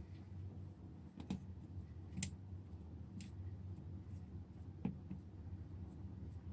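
Four or five faint, scattered clicks over a low steady hum.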